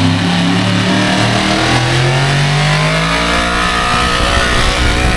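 Small-block gasoline pulling truck engine at high revs under load, the pitch climbing about two seconds in, then dropping and wavering as the truck pulls the sled.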